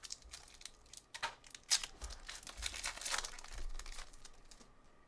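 Crinkling and tearing of a trading-card pack wrapper as a pack is ripped open, in a few short rips and rustles.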